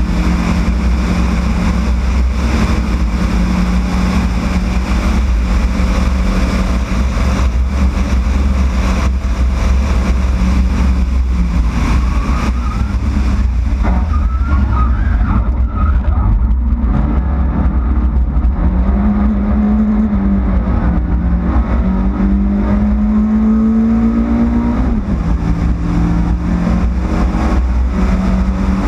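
Yugo race car's engine running under load. The note holds steady at first, then rises and falls in pitch several times over the second half, with a sudden drop near the end.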